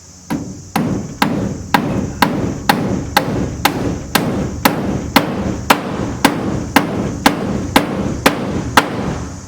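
Hammer pounding on wooden framing, a steady run of about eighteen blows at roughly two a second that starts just after the beginning and stops near the end, with insects buzzing steadily underneath.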